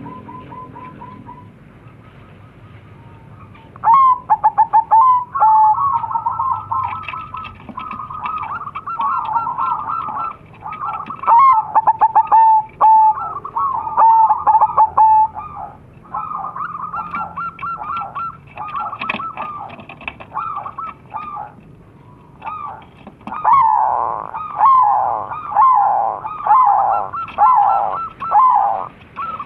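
Crossbred zebra doves (perkutut) calling back and forth with quick rippling coos. From about 4 s in the calls come in dense runs, and near the end a series of falling coos repeats about once a second.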